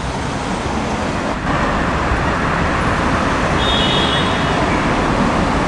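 Road traffic noise: a steady rumble and hiss of passing vehicles that gets louder about a second and a half in.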